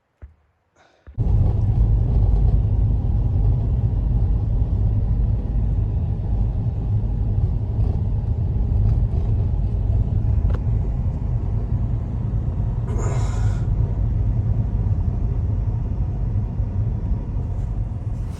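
Wind buffeting the microphone: a loud, low rumble that starts suddenly about a second in and carries on steadily, with a brief hiss about thirteen seconds in.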